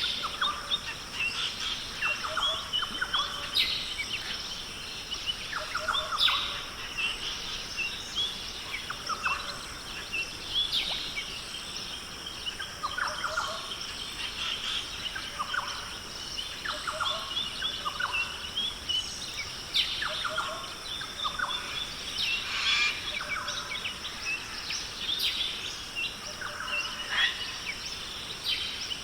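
Australian rainforest birds calling, with many short chirps and whistles every second or two, over a steady high-pitched drone.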